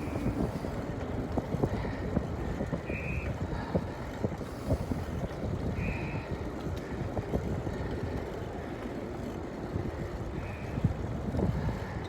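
Wind buffeting the microphone and road noise of a moving bicycle: a steady low rumble peppered with small knocks and rattles, with a few short high-pitched chirps now and then.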